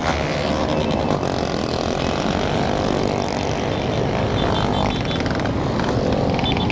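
Many motorcycle engines running together in a crowded group ride, a dense, steady drone of exhaust noise.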